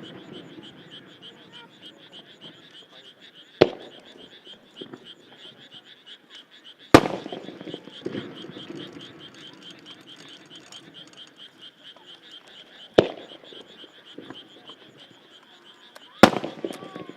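Single Japanese aerial firework shells bursting one at a time: four sharp bangs a few seconds apart, each trailing off in a rolling echo. The one about seven seconds in is the loudest. A steady, high, rapidly pulsing chorus runs underneath throughout.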